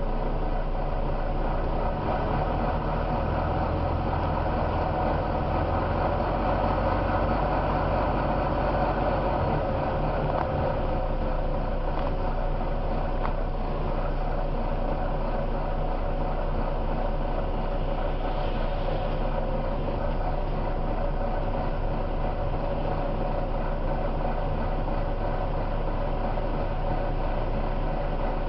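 Volvo B9TL double-decker bus's six-cylinder diesel engine running steadily, with no sharp change in pitch.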